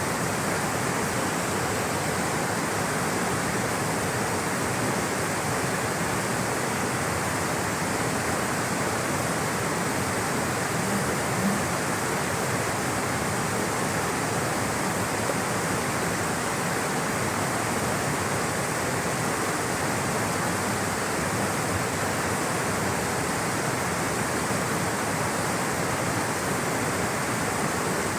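Rushing water of a stream or small waterfall, a steady unbroken wash of noise.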